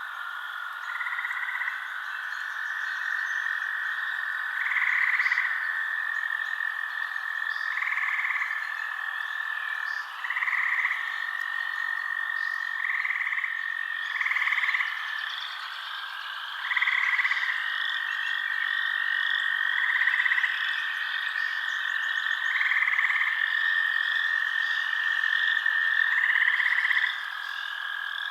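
Frogs calling in a night chorus, a louder call about every two to three seconds, over a steady high trill and fast, continuous chirping.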